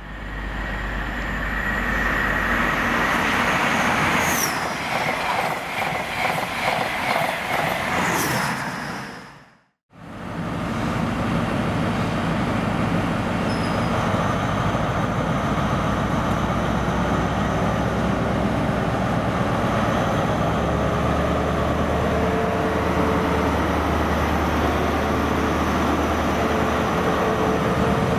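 A train passing at speed, its wheels clattering rhythmically over the track. After a sudden cut, a diesel train's engine runs steadily, its low note rising about two-thirds of the way through.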